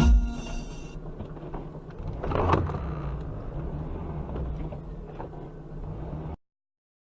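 Steady low vehicle rumble, with a brief swell of noise about two and a half seconds in. It cuts off abruptly a little after six seconds.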